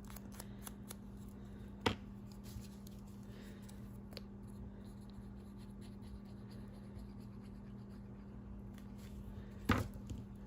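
Paper pieces being handled and laid out on a playing card: light scratching and rustling, with two sharp taps, about two seconds in and near the end, over a steady low hum.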